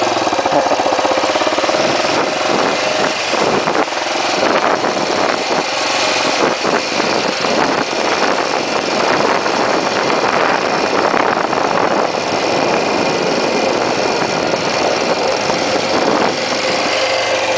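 1980 Yamaha XT500's single-cylinder four-stroke engine running steadily under way while the bike is ridden, heard from the rider's seat.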